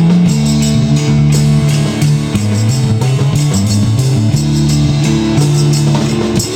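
Instrumental passage of a rock song: guitar, bass and drum kit playing between sung lines, with no vocals.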